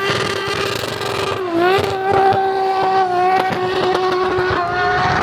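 Aston Martin Vulcan's naturally aspirated V12 running flat out, a high, steady engine note that dips briefly in pitch about a second and a half in, then holds high again.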